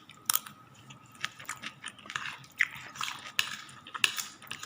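A person chewing sweet potato leaf salad close to the microphone: irregular moist crunches and mouth clicks.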